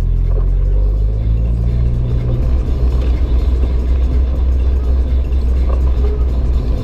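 Renault 5 GT Turbo's turbocharged four-cylinder engine heard from inside the car: its low note falls over the first two seconds or so as the car slows, then holds as a steady drone.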